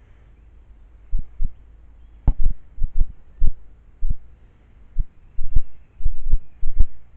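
Irregular low thumps, about a dozen, unevenly spaced; a couple about two seconds in are sharper, with a click on top.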